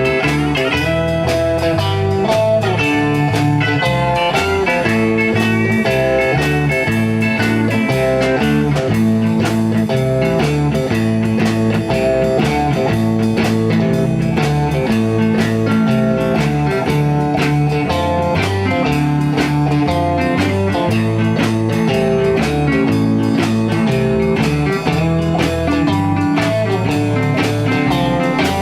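A blues-rock band playing an instrumental passage: an electric guitar over bass and a steady drum beat, with no singing.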